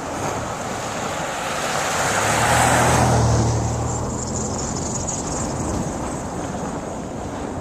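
A car drives past: the engine's low hum and the tyre noise build to their loudest about three seconds in, then fade away.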